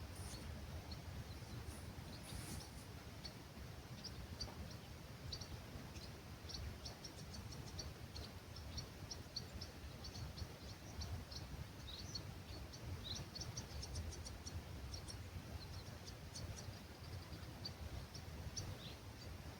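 Small songbirds chirping at dawn in an olive grove: many short, high chirps and calls all through, with a few falling notes, over a steady low rumble of breeze.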